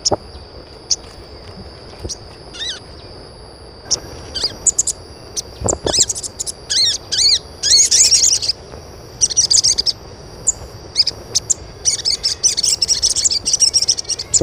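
Small birds chirping and twittering in quick, high repeated notes, busiest around the middle and again near the end, over a steady high-pitched whine. A few dull thumps, one of them about six seconds in.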